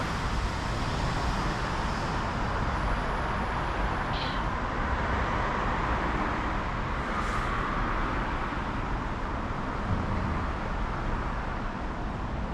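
Steady outdoor street noise: a continuous rush and low rumble of road traffic.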